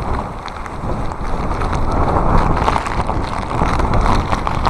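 Typhoon wind buffeting a phone's microphone: a loud, heavy rumble with rain and sea spray spattering in quick ticks.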